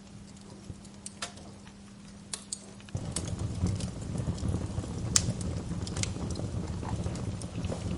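Wood fire crackling with irregular sharp pops. About three seconds in, a low rumble joins in and the sound gets louder.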